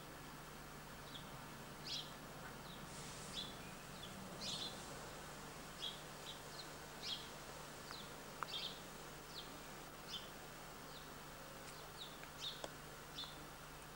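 Small birds chirping faintly: short high chirps, one or two a second, over a steady low hum.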